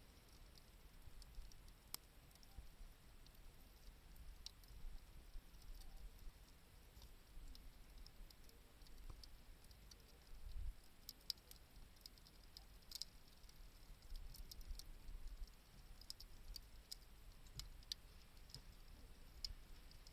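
Faint crackling of a wood campfire: sparse, irregular sharp pops and ticks over a low, steady rumble.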